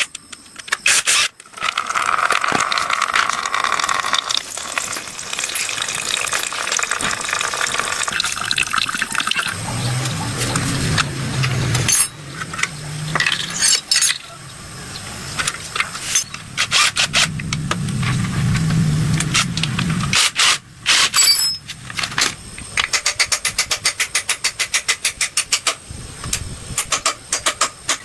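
Workshop sounds of working on an engine: a stretch of hissing, like water running or spraying, with scraping and knocks, then a run of rapid, even clicks like a ratchet wrench near the end.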